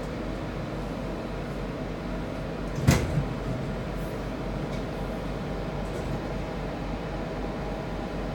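Class 323 electric multiple unit running, heard from inside: a steady rumble with a low hum, broken about three seconds in by a sharp knock and a smaller one just after.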